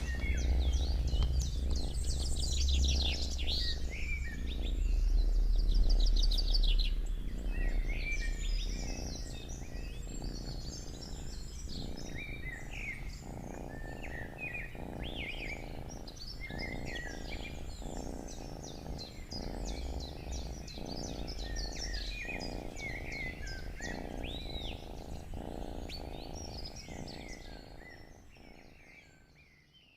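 Domestic cat purring close up, the purr swelling and easing with each breath about once a second, while several songbirds chirp and trill in the background. A low rumble sits under it in the first few seconds, and everything fades out near the end.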